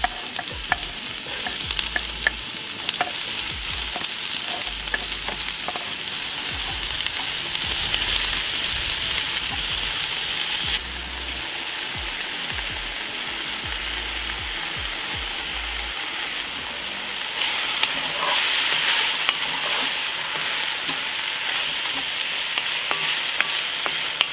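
Diced onions, bacon and cabanossi sizzling hard in hot rendered bacon fat in a cast-iron Dutch oven, being stirred with a wooden spoon, with scattered light clicks. The sizzle drops in level a little before halfway through and grows louder again about three-quarters of the way through.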